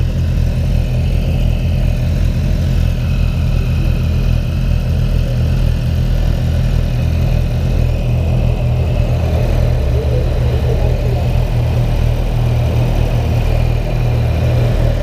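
An engine idling steadily, a constant low hum with no revving.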